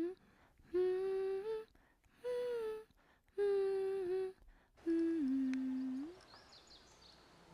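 A person humming a slow tune: four held notes of about a second each, with short breaks between them, the last one stepping down in pitch before it stops about six seconds in.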